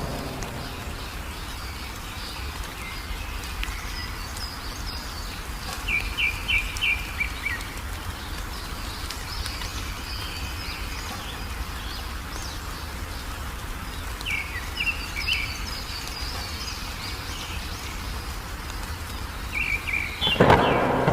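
Wild songbirds chirping in short, quick trilled phrases over a steady wash of rain and a low rumble of thunder. A loud peal of thunder breaks in near the end.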